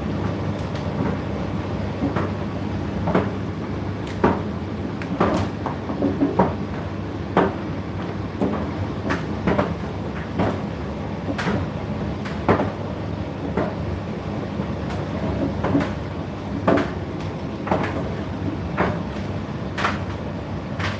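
Indesit IDC8T3 condenser tumble dryer running mid-cycle: a steady low motor and fan hum with irregular knocks, about one a second, as the laundry drops inside the turning drum.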